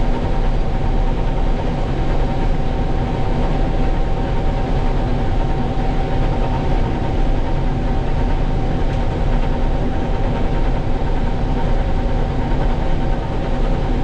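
International Harvester 1440 combine running steadily, a continuous drone of engine and machinery with a constant whine above it.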